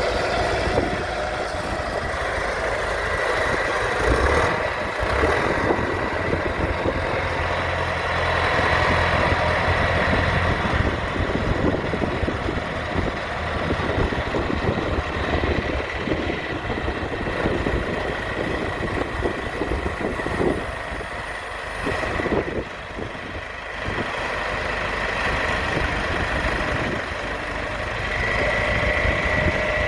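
John Deere 410D loader backhoe's diesel engine running steadily, its level rising and falling a little, with a thin high whine over it.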